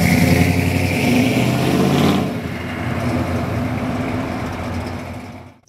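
Car engine running loudly, its note dropping and settling about two seconds in, then fading out near the end.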